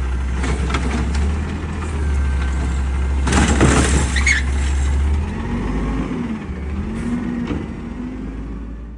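Peterbilt 520 garbage truck's diesel engine running steadily, with a short burst of air-brake hiss a little over three seconds in.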